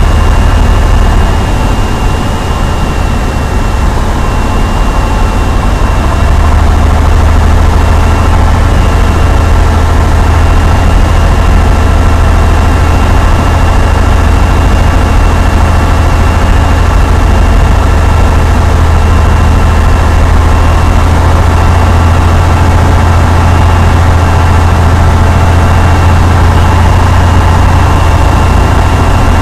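Cessna 172's piston engine and propeller running steadily, a loud continuous drone that eases slightly for a few seconds near the start, then holds even.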